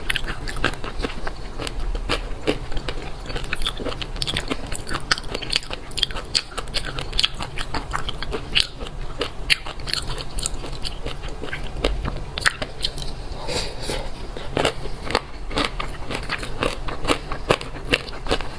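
Fish roe being chewed, the small eggs popping and crackling in a dense run of quick clicks.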